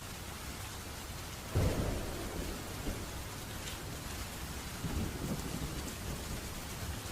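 Steady rain falling, with a roll of thunder that breaks in suddenly about a second and a half in and rumbles on, swelling again near the five-second mark.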